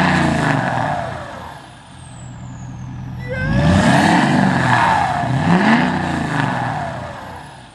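Ford Power Stroke turbo-diesel V8 revving up and falling back three times, loud, with a high whistle gliding down in pitch each time the revs drop.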